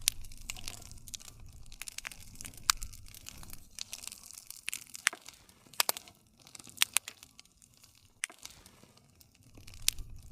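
Wood fire crackling, with irregular sharp pops and snaps over a low rush of burning. The loudest pops come about three seconds in, near seven seconds and near the end.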